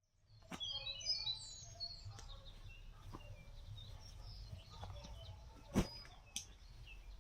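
Small birds chirping and calling, busiest in the first two seconds and sparser after, with a few sharp clicks or knocks, the loudest one just before six seconds in.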